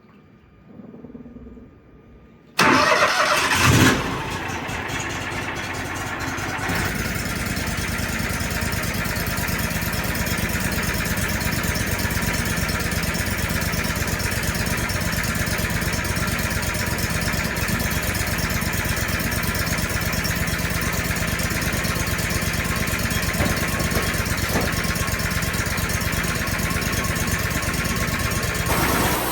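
Wood-Mizer sawmill's engine cranking and catching about two and a half seconds in, then running steadily, stepping up to a slightly higher speed about seven seconds in.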